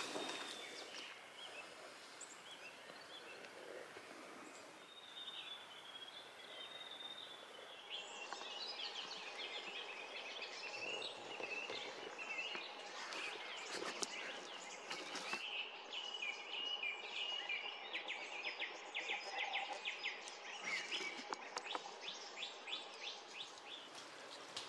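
Faint birdsong in bush: repeated chirps and short trills from several birds, growing busier about a third of the way in.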